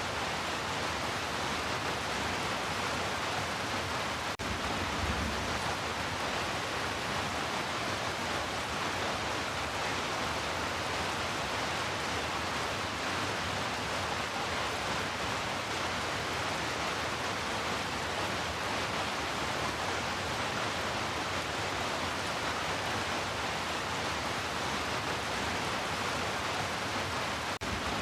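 Steady heavy rain, an even hiss with no separate drops standing out, with a faint click about four seconds in and again near the end.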